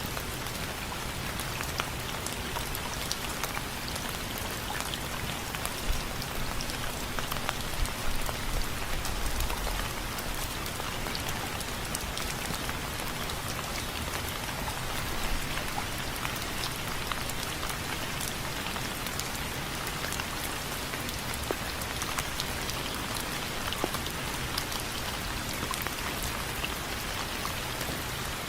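Steady rain falling on window frames: a dense hiss of rainfall with many small, sharp drop impacts ticking on the frame. A brief low rumble comes about a third of the way through.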